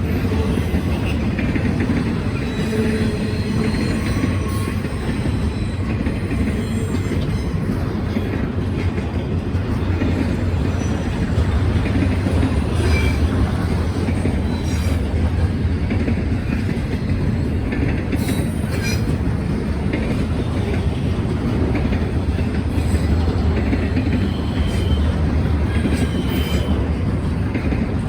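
Norfolk Southern freight train 29A's cars rolling steadily past, wheels clacking over the rail joints with short bursts of squeal.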